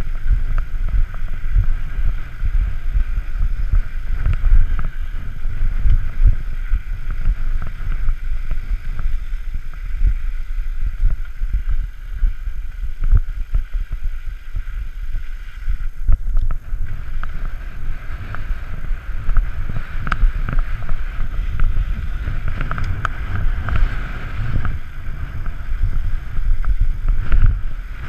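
Wind buffeting an action-camera microphone while riding a bicycle fast down a dusty dirt path, with steady rumble and frequent small rattles and knocks from the bike over rough ground.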